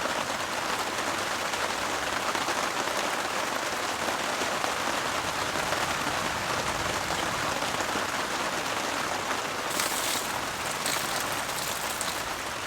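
Heavy rain falling steadily on a heavy-duty tarp overhead. There are a few brief crackles near the end.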